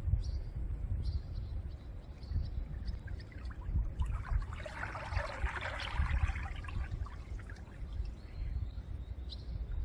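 Calm sea washing gently on the shore, one wave swelling up and fading away in the middle, over a steady low wind rumble on the microphone.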